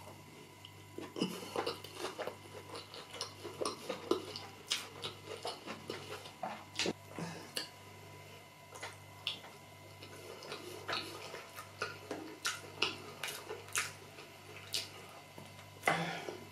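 Close-miked eating: chewing and irregular mouth clicks and smacks over rice-and-beans porridge and fish, with a plastic spoon now and then clicking in a glass dish. A steady low hum runs underneath.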